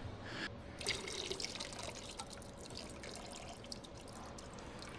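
Coolant dripping and trickling from a just-disconnected coolant line: many small drips, densest about a second in and thinning out toward the end.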